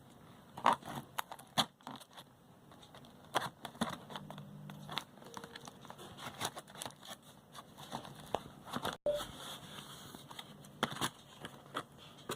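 Packaging being handled and opened: irregular rustling and crinkling of paper and cardboard with sharp clicks and taps.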